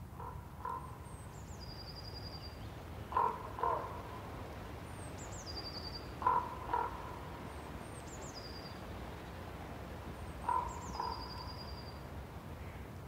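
Birds calling: one bird gives a low, harsh two-note call four times, a few seconds apart. A smaller bird sings a high song four times, a quick falling run of notes ending in a short trill. A steady low background rumble runs underneath.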